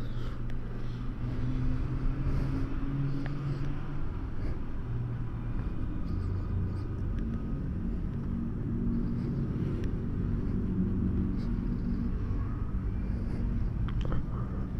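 Motor vehicle engines running: a continuous low rumble with engine tones that rise and fall in pitch.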